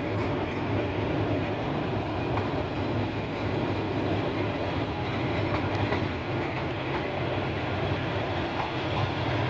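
A train running along the track, a steady noise of wheels on rails with a low hum underneath.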